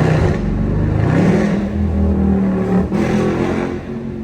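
SRT Jeep Grand Cherokee's V8 engine pulling under hard acceleration, revs climbing about a second in and holding high, with a brief dip near three seconds in, then settling lower and quieter near the end.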